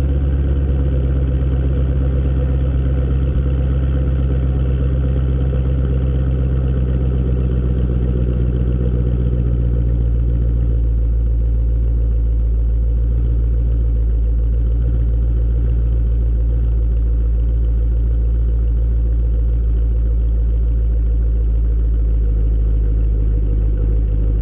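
Supercharged 6.2-litre LSA V8 of a 2013 Camaro ZL1 idling steadily at cold-start fast idle just after firing up. The note settles slightly lower right at the start and gets a little softer about ten seconds in.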